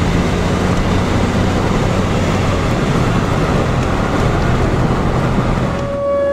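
Loud, steady rushing of wind and road noise with a low, wavering engine hum from a moving vehicle. Near the end the sound cuts to a steady, high siren tone.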